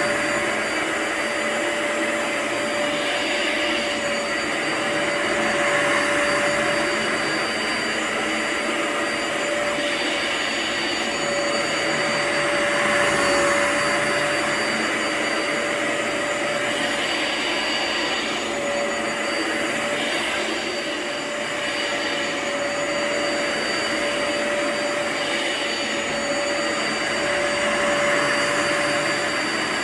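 Vacuum cleaner motor running steadily with a constant whine, its sound changing slightly every few seconds as it works over a rug.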